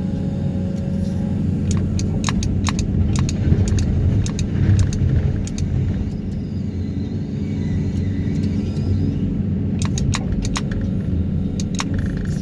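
Excavator's diesel engine running steadily, a continuous low drone, with scattered sharp clicks and rattles throughout.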